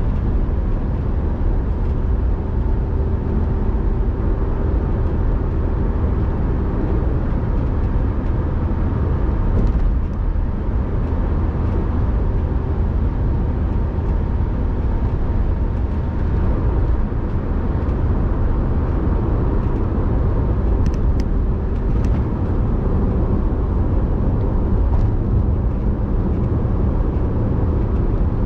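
A car driving at a steady pace: constant low rumble of engine and road noise that holds even throughout.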